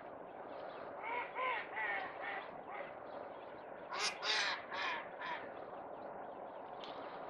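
A bird calling in two series over a steady background hiss: about five calls starting about a second in, then four louder calls starting about four seconds in.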